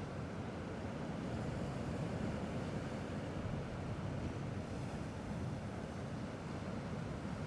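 Sea waves washing gently on a rocky shore, a steady low rumble of surf with wind on the microphone.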